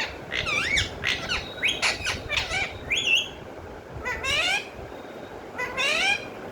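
Pet parrot calling and squawking in a run of short pitched calls, most rising in pitch. Several come in quick succession over the first three seconds, then two longer calls about four and six seconds in.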